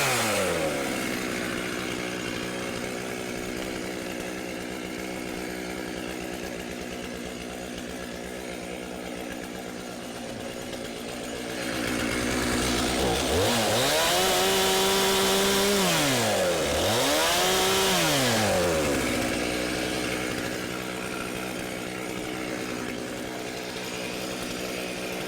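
Chainsaw falling back to idle at the start and idling steadily, then revved up twice in quick succession about halfway through, each time held high for a couple of seconds and dropped back, as it cuts through brush and vines.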